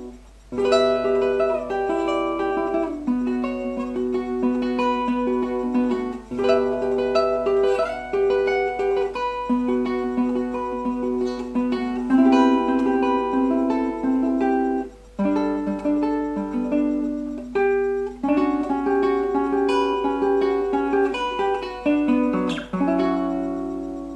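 Instrumental music: a plucked string instrument picking a melody over lower notes, pausing briefly a few times.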